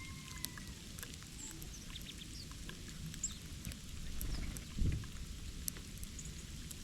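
Small birds giving short, high chirps, with many scattered light ticks over a low steady rumble; a dull thump about five seconds in.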